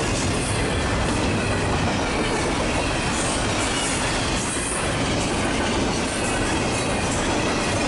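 Double-stack intermodal container train passing close by: the steel wheels of its loaded well cars roll over the rails in a steady, loud, continuous rumble.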